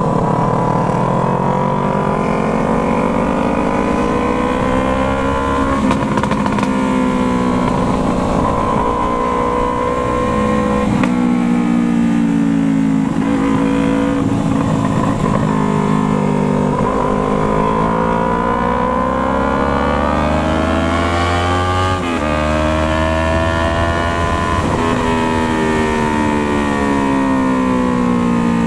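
Yamaha MT-03's parallel-twin engine breathing through a Jeskap aftermarket exhaust under way. Its note keeps rising and falling with the throttle, with abrupt breaks in pitch about 11 and 22 seconds in.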